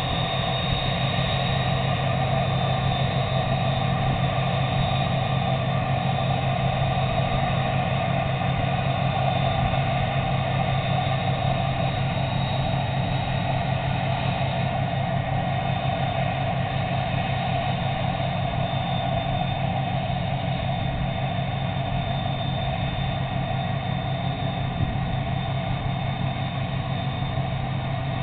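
Steady low drone of a river tug's diesel engines as it pushes barges, holding an even pitch with no change in speed.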